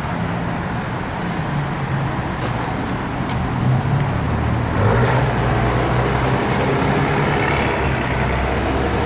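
Street traffic: a vehicle engine running close by with a steady low hum over continuous road noise, the hum shifting about five seconds in.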